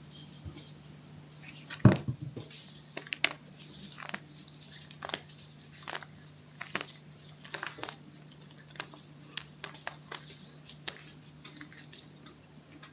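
Crunchy chalk being crunched: irregular crackles and snaps, with the loudest crack about two seconds in.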